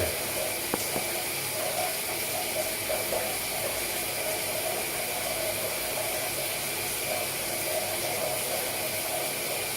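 A steady hiss with a faint high steady hum.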